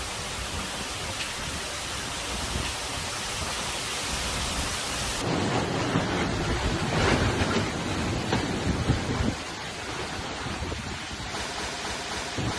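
Thunderstorm: steady hiss of heavy rain, then a louder low rumble of thunder that swells about six seconds in and dies away a few seconds later.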